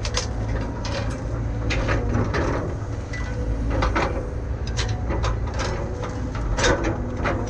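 Excavator's diesel engine running steadily, with repeated sharp knocks and clanks.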